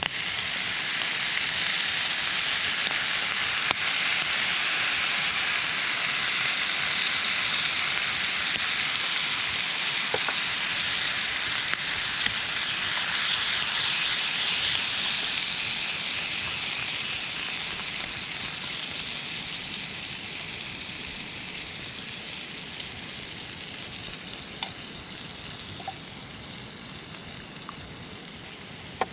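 Food sizzling in a hot pan: a steady frying hiss with a few faint pops that slowly dies down over the second half.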